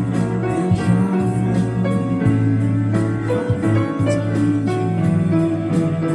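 Jazz piano playing over a held bass line and a steady beat.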